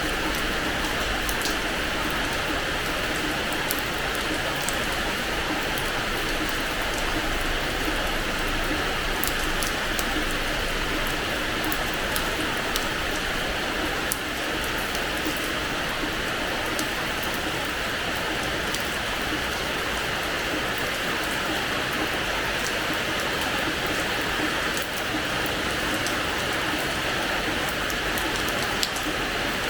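Steady rain falling on a hard terrace floor, an even hiss with scattered sharp drop splashes.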